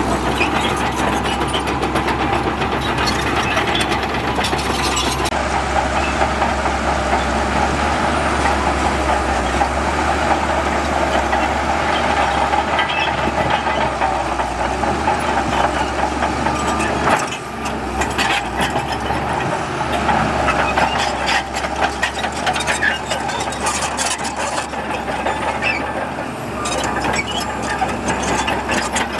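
Heavy diesel earthmoving machinery running steadily, with a dense rattle and frequent metallic clanks; the sound dips briefly partway through.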